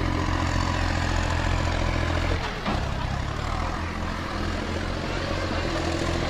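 Tractor engine running hard at high revs, its steady note breaking off and dropping lower about two and a half seconds in, then carrying on unevenly.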